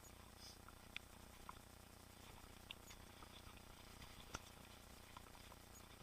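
Faint, irregular clicks and ticks over a low steady rumble: a mountain bike rattling as it is ridden along a trail, the sharpest click about four and a half seconds in.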